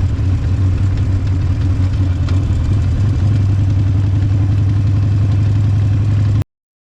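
Harley-Davidson Forty-Eight's air-cooled V-twin running at a steady idle, cutting off suddenly near the end.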